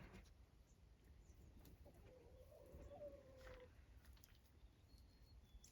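Near silence, with one faint, drawn-out animal call about two seconds in that holds a steady pitch for over a second, and two tiny high chirps near the end.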